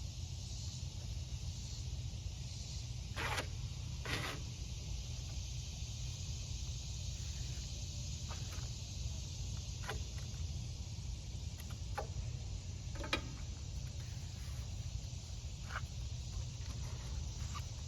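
Adhesive flashing tape being pulled off the roll and pressed along lumber: short, scattered rasps and rustles, about eight in all, over a steady low rumble and hiss.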